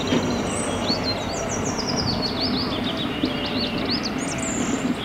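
A small bird singing a fast series of short, sweeping chirps over a steady outdoor din, with the low running of a concrete mixer truck's diesel engine underneath.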